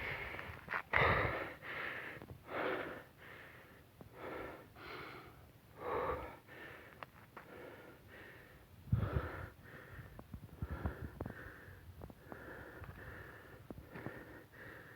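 A person breathing hard and fast, about one breath a second: out of breath after jogging uphill.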